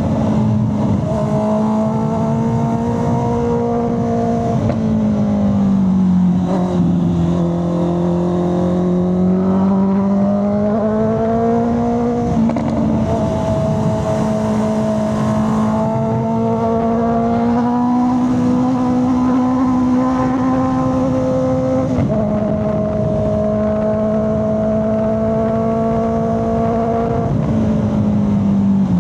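Honda CB650R inline-four engine and exhaust under way, its note rising and falling with the throttle. The pitch sinks about six seconds in and climbs back, and it steps down suddenly twice, about halfway and near three-quarters through, as on upshifts.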